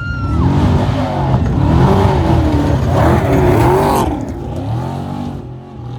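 Off-road race vehicle passing at speed, its engine revving up and down over a rush of tyre and dirt noise. It is loudest for the first few seconds, then drops away about four seconds in.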